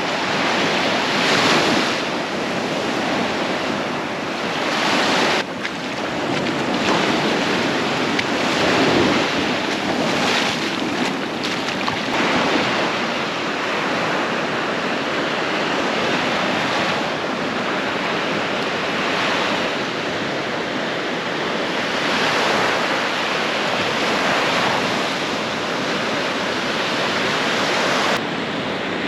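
Surf breaking on a beach, in swells every few seconds, with wind on the microphone.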